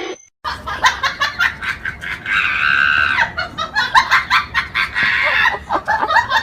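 Someone laughing hard in quick, repeated bursts, with a high, drawn-out squeal about two and a half seconds in.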